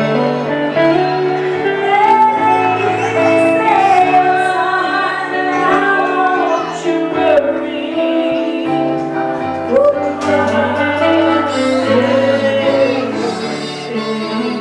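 Gospel church music: a woman singing over instrumental accompaniment with held chords and a moving bass line.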